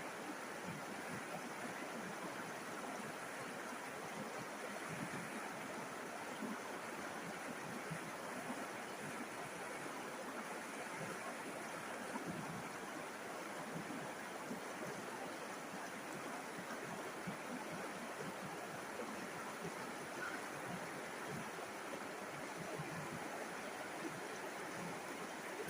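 River water flowing over rocks in a steady, even rush with no pauses.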